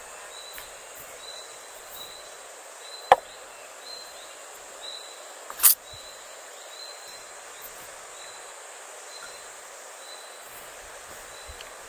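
Outdoor ambience: a steady hiss with a short high chirp repeating about one and a half times a second, broken by two sharp snaps, one about three seconds in and a louder one near six seconds.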